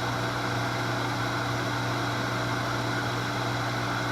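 Shallow well pump's electric motor running with a steady hum, started by working the pressure switch by hand; the owner suspects a faulty pressure switch.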